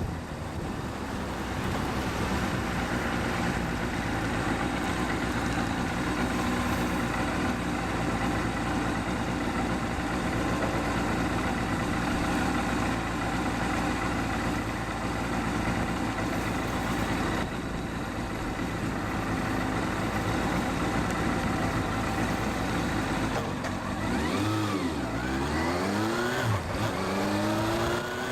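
Kawasaki Balius 250 cc inline-four running through a Wr's aftermarket muffler with its baffle fitted, heard while riding. It holds a steady pitch for most of the time, then rises and falls in pitch several times near the end.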